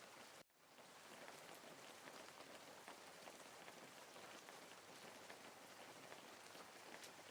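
Faint steady rain, a soft hiss with fine pattering drops. About half a second in it cuts out completely for a moment and then fades back in, as at a loop or edit point in a rain recording.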